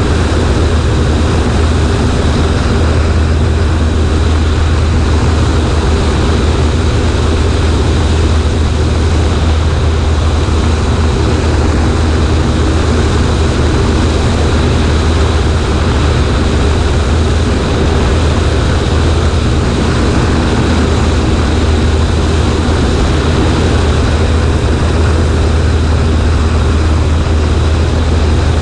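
Cessna 140A's piston engine and propeller running steadily at constant power, a loud, even drone heard from the wing with rushing air noise over it.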